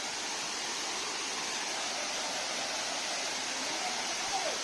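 Steady rushing of falling water from a waterfall, an even hiss with no pauses.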